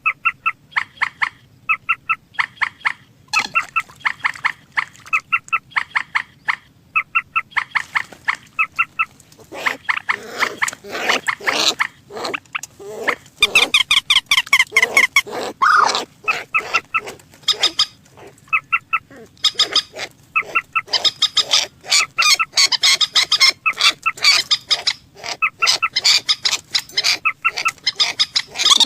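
Rails calling: a rapid series of short, sharp calls repeating several times a second. About ten seconds in it grows into a louder, denser run of overlapping calls, and again in the last third.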